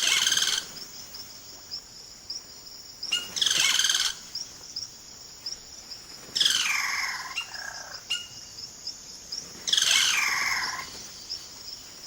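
Yellow-rumped cacique males singing: four loud, varied calls a few seconds apart, some sliding downward in pitch. Under them runs a steady, evenly pulsing insect chirp.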